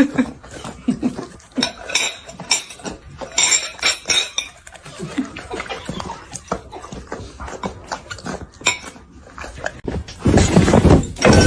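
Irregular clinks and clatters like dishes or cutlery being knocked about, with a denser, louder stretch of noise starting about ten seconds in.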